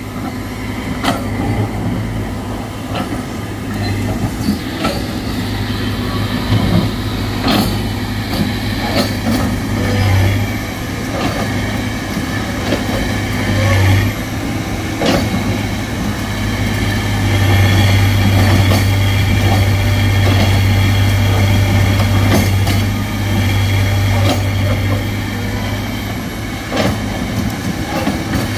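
Excavator's diesel engine running steadily under load, with repeated sharp knocks and clanks as the bucket works against rock.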